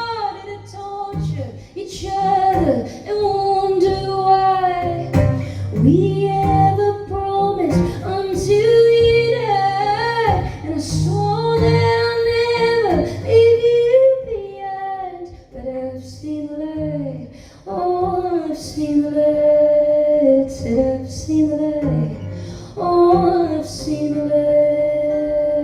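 A woman singing live with instrumental accompaniment, with long held notes that slide between pitches.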